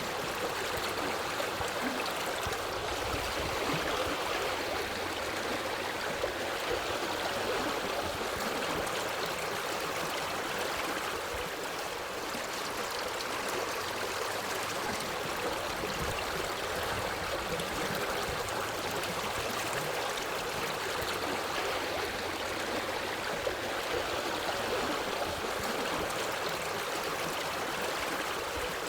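Forest stream flowing over rocks: a steady rush of water with a light gurgle.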